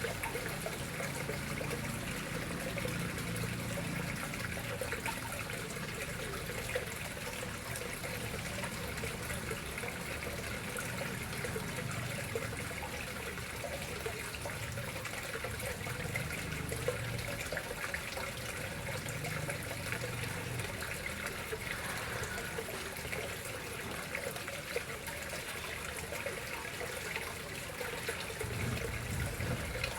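Water running and trickling steadily into a koi pond.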